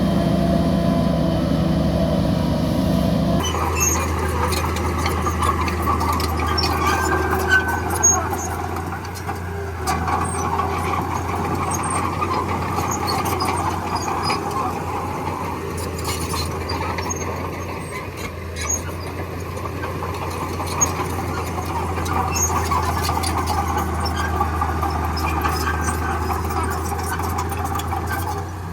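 Crawler bulldozer at work: its diesel engine runs steadily under the squealing and clanking of its steel tracks. The sound changes abruptly about three seconds in.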